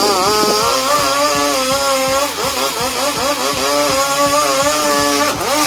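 Chainsaw engine running hard, its pitch rising and falling as it cuts.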